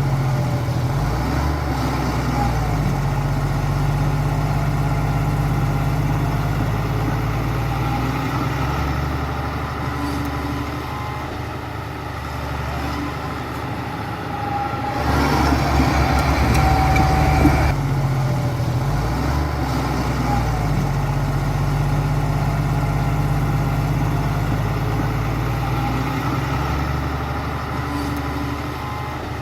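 Heavy diesel engine of construction machinery running at low revs, its pitch stepping up and down a few times. About fifteen seconds in it grows louder and rougher for a couple of seconds, then settles back.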